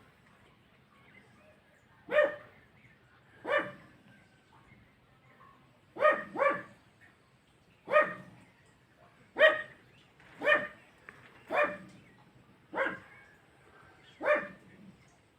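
A dog barking: about ten single barks, each a second or so apart, starting about two seconds in.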